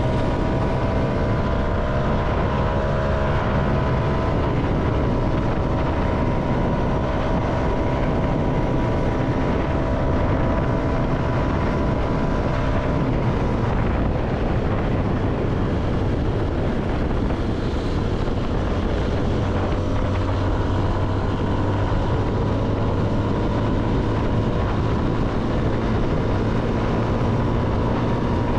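CFMoto motorcycle engine running at a steady road speed, its note easing slightly over the first half and then holding, with wind rushing past.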